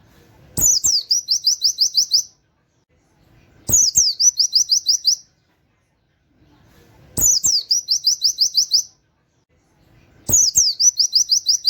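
White-eye (pleci) singing in four short bursts about three seconds apart: each burst is a downward sweep followed by a fast run of about eight repeated high notes, the rapid 'nembak' song with 'wit wit' notes. A short low thump comes at the start of each burst.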